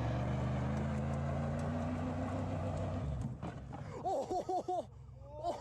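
An engine running steadily for about three seconds, then a quick run of short, high squeaks.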